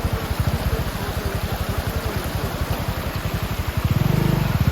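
Small single-cylinder Hero motorcycle engine chugging at low revs with a rapid, even beat, growing louder near the end as it is given more throttle.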